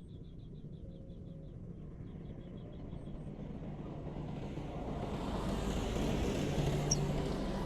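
A small bird gives two quick runs of high chips in the first three seconds, then the noise of an approaching road vehicle builds steadily and becomes the loudest sound in the second half.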